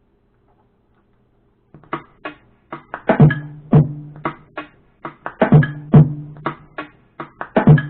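A looped drum beat from a phone drum-pad app, starting about two seconds in: a steady rhythm of sharp hits with deep kick-drum thumps repeating in a pattern.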